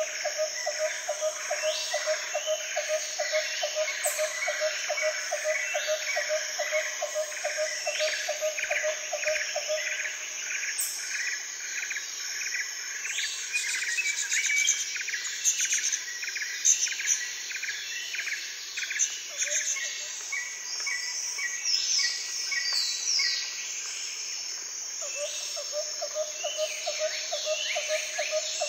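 Outdoor ambience of birds and insects calling: a rapid, even pulsing note, about three or four a second, which stops about ten seconds in and returns near the end, over quick repeated higher chirping and a few brief high sweeping calls.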